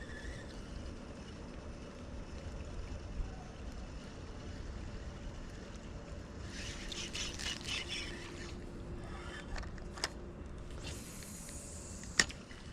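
River water trickling as a steady low rush, with a few sharp clicks about ten and twelve seconds in and short stretches of faint high crackling between them.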